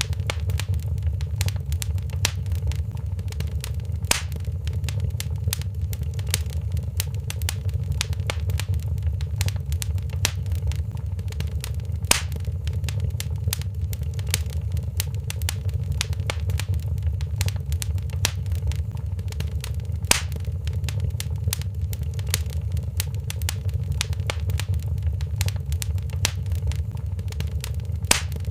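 Wood fire crackling in a fireplace: dense small snaps and a few louder pops over a steady low rumble.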